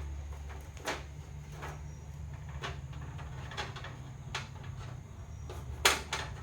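Scattered light clicks and taps of handling, over a steady low hum; the loudest click comes about six seconds in.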